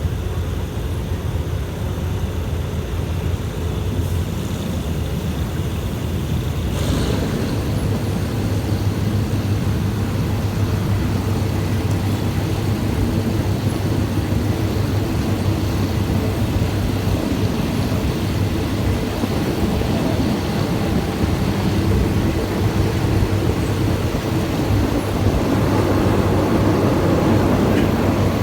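Diesel passenger train running, a steady rumble with a low engine hum, growing a little louder near the end.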